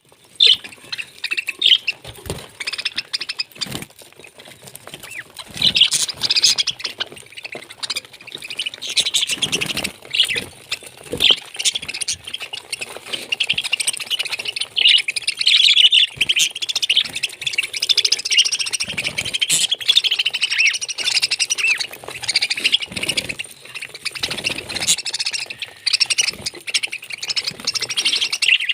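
Parrot chirping, chattering and squawking almost without pause, with scattered short knocks now and then.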